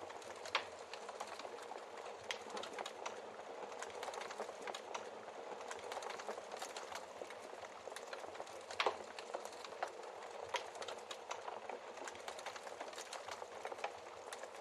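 Wood fire crackling in a fireplace: a steady hiss of flame with irregular small snaps and a few louder pops from the burning logs.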